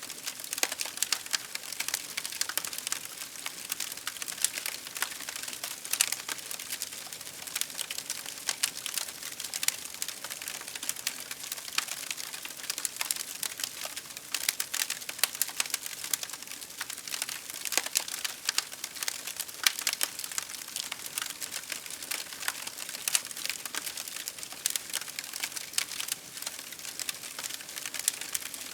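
Wood fire crackling: many sharp, irregular pops and snaps over a steady soft hiss.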